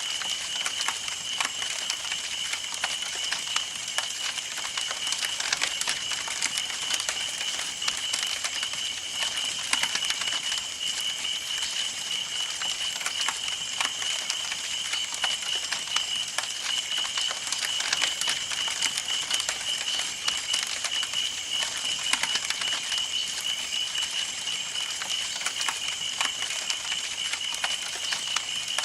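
Campfire burning: wood crackling and popping in a dense, irregular stream of sharp clicks over a soft hiss, with a steady high-pitched note running underneath.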